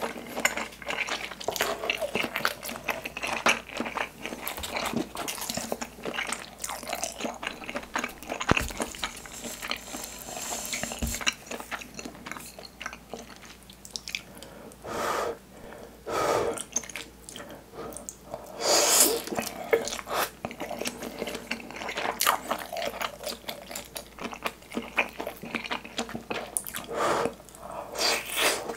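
Close-miked chewing and biting of soft skewered Korean fish cake (eomuk), dense small mouth clicks and smacks throughout, with a few louder short bursts of sound at intervals.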